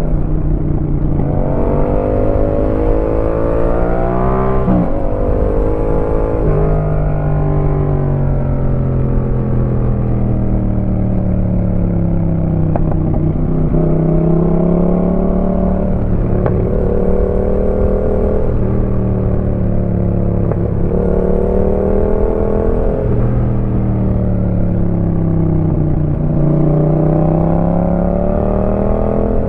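Yamaha MT-07's 689 cc parallel-twin engine through an aftermarket Roadsitalia exhaust, under way. It revs up hard in the first few seconds and drops sharply in pitch at a gear change about five seconds in. After that it falls away slowly, then climbs and falls again several times as the throttle is opened and closed.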